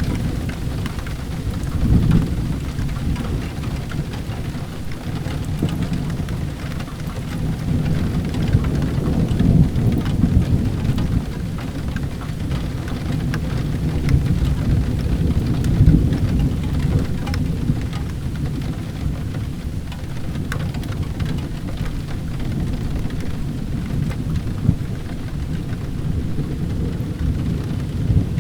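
Steady rain with a low, rolling rumble of thunder that swells several times.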